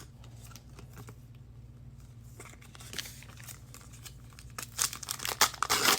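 Foil trading-card pack wrapper crinkling and cards being handled: faint scattered rustles and clicks that grow into louder crinkling near the end, over a low steady hum.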